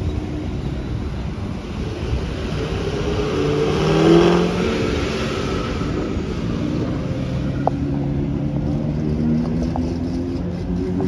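A Corvette's V8 revving and accelerating, climbing in pitch to its loudest about four seconds in, then running on at a steadier, lower note.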